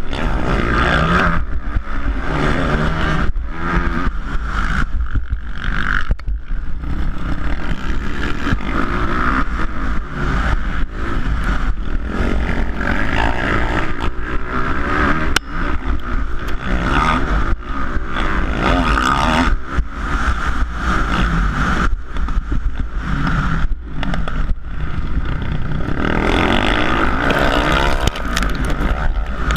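450cc four-stroke motocross motorcycle engines running hard in a race, revving up and down continuously as the riders work the throttle through the track, with brief drops in pitch between bursts.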